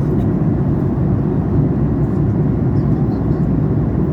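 Boeing 737 MAX 8 cabin noise in flight: a steady low rumble of airflow and engines, even throughout with no distinct events.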